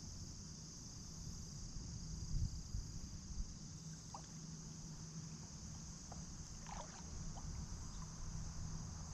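Kayak on a river: low water and handling noise with a few bumps, under a steady high insect drone, and a few short chirps about four and seven seconds in.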